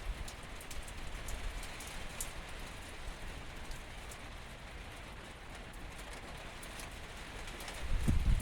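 Steady rain falling, with scattered sharp drop ticks over an even hiss. A low rumble swells near the end.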